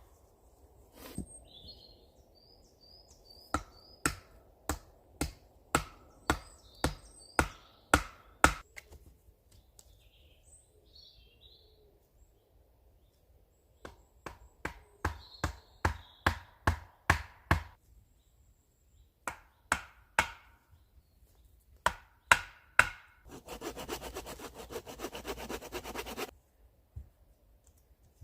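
Sharp strikes of a tool on wood in runs of about two a second, then a few seconds of fast rasping strokes near the end. Faint high bird chirps can be heard in the pauses.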